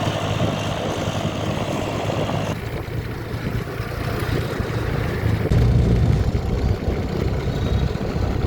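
TVS NTorq scooter engine running with a steady hum. About two and a half seconds in, the sound changes abruptly to a rougher, lower rumble, louder for a moment a little past halfway.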